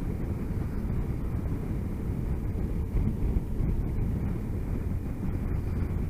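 Steady riding noise from a motorcycle on the move: low wind rumble on a helmet microphone mixed with engine and road drone.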